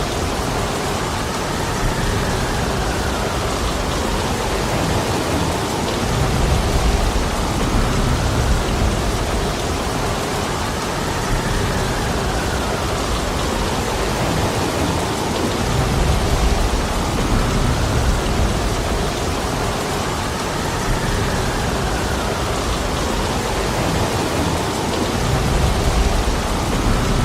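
Heavy, steady rain, with deep low rumbles that swell and fade every several seconds.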